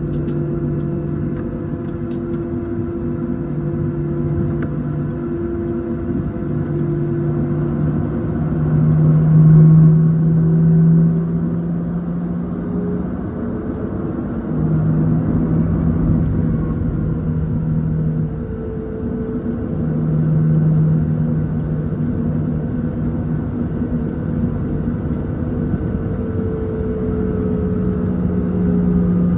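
Cabin noise of a Boeing 737-700 taxiing: the CFM56-7B engines running at taxi thrust make a steady drone heard inside the cabin. Low hums within it fade in and out and drift slightly in pitch, and the sound swells briefly about ten seconds in.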